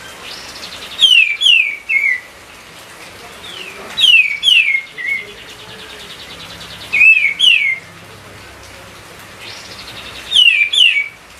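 Kapas tembak songbird singing vigorously: a short phrase of three or four quick, falling whistled notes, repeated four times about three seconds apart, over a faint buzzing trill in between.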